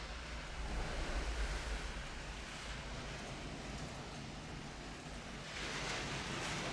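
Pink noise: a rushing hiss with no tone in it, uneven like surf or wind, with a low rumble in the first two seconds and a brighter swell of hiss near the end.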